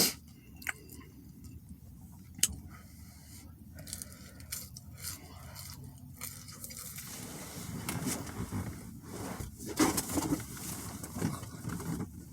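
A person chewing and biting into a Philly steak sandwich close to the microphone. There are a few sharp mouth clicks in the first few seconds, and the chewing and handling noise grows louder about halfway through.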